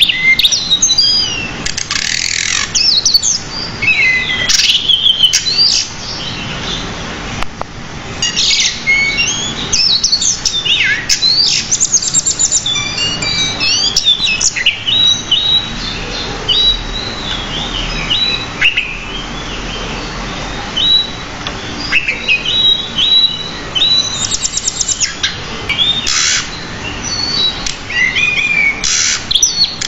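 Pied bushchat singing almost without pause: a fast, varied stream of chirps, whistles and trills, full of mimicked fill phrases, the sort of continuous song used as a training recording for caged birds.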